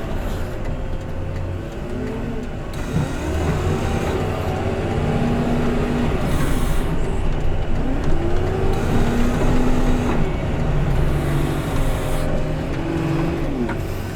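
Diesel engine of a heavy snow-clearing machine running under load, its pitch rising and falling repeatedly as it works.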